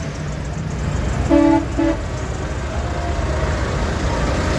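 Tractor engines running steadily as tractors pass, with a horn tooted twice about a second and a half in: one longer toot, then a short one.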